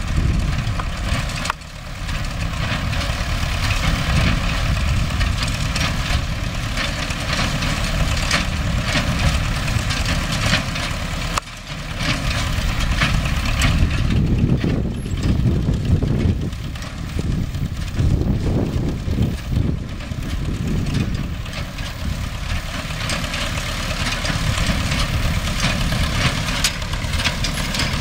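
MTZ-5 tractor's diesel engine running steadily under a dense mechanical clatter from the hay baler it drives. The sound drops out briefly twice.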